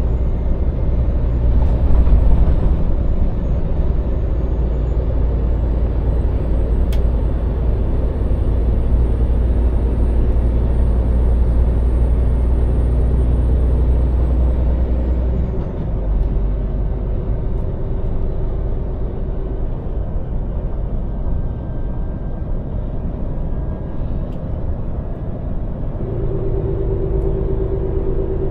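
Scania lorry's diesel engine running on the move, with road noise. The deep low rumble eases about halfway through, and a faint high whine glides up and down over the first half.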